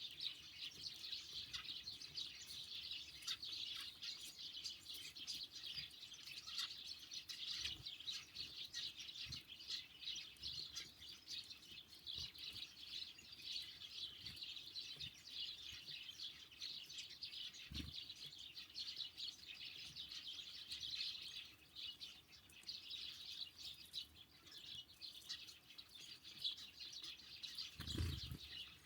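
Small songbirds at a feeder chirping and twittering without pause, many short calls overlapping. A few soft low thumps come through, the strongest near the end.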